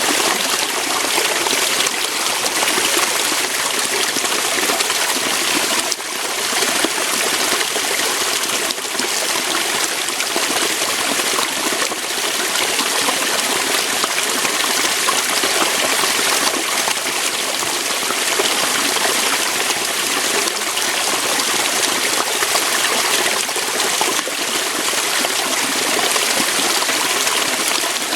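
Waterfall: water falling and flowing over rocks in a steady, even rush.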